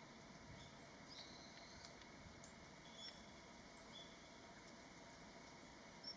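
Faint, thin high bird calls over quiet outdoor hiss: a held whistle about a second in, then a few short scattered chips.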